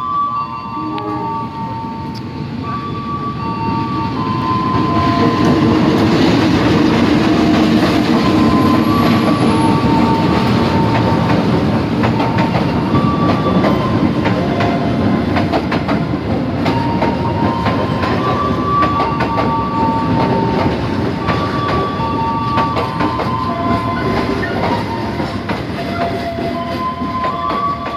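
Commuter Line Jatiluhur train pulling into the station: rumble and wheel clatter on the rails that swell from about four seconds in and then hold. Through it a warning chime of two alternating high tones keeps repeating.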